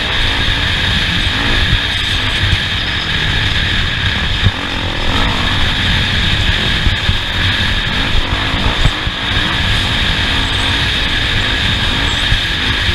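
Off-road race vehicle driving the course, its engine running steadily under way with constant rumbling and jolting from rough ground.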